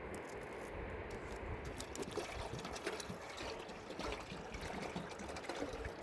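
Water trickling and pouring, with many small scattered clicks.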